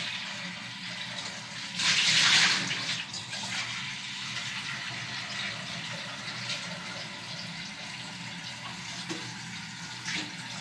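Water running from a kitchen tap into a cooking pot, filling it, with a louder gush about two seconds in.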